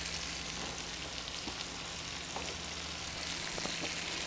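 Chicken breasts frying in a skillet: a steady sizzle, with a few faint light clicks.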